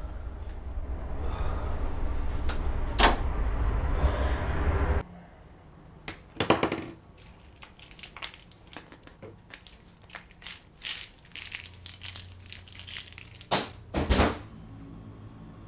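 Kitchen handling sounds: small clicks and taps as a plastic pill bottle and glasses are handled on a counter, with a louder knock about six seconds in and two loud knocks near the end. Before that, for about five seconds, a loud low rumble with a couple of sharp knocks.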